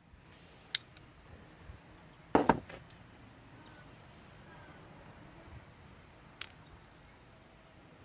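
Small metal parts and hand tools being handled while nuts are fitted onto a trimmer's carburetor studs: a light click about a second in, a louder short clatter of knocks a little later, and another click near the end, over quiet room tone.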